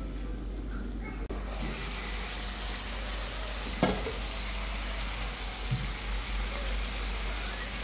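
Kpomo (cow skin) simmering in pepper-and-tomato sauce in a frying pan, a steady sizzle that comes in about a second in. A single sharp knock sounds near the middle.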